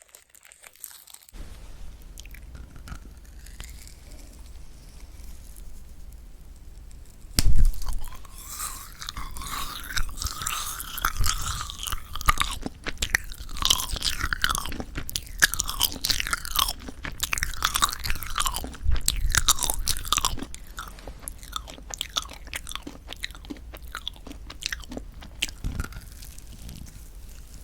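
Close-miked chewing of an owl-shaped marshmallow pop gone tough and rubbery, which the uploader puts down to poor storage. A loud bite comes about seven seconds in, then sticky, squeaky chewing that grows quieter in the last few seconds.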